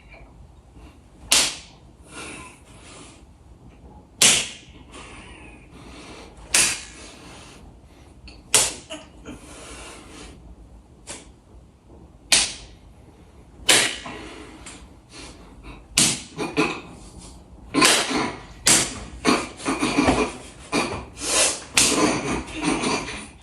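Loud, sharp crunches of crunchy food being bitten and chewed, a few seconds apart at first, then coming in quick runs near the end.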